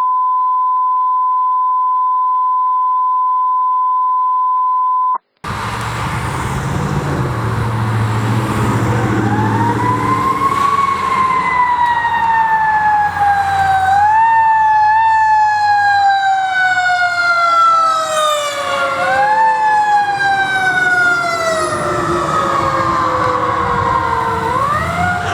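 A steady, high beep-tone for about five seconds that cuts off. Then a fire truck's siren winds up and slowly winds down, boosted back up three times, over truck engine rumble.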